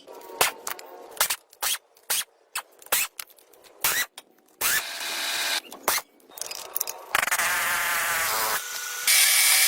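Workshop tool noise: a quick run of sharp knocks and clicks, then a power tool running in three spells of about a second each, the last the loudest.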